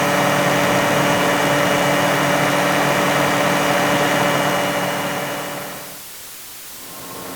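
Motorcycle engine running at a steady pitch, then fading out about five to six seconds in; another engine sound starts to rise near the end.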